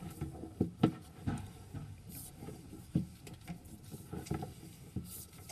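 Sewer inspection camera's push cable being fed and handled, making irregular light clicks and knocks, the sharpest about a second in and at three seconds.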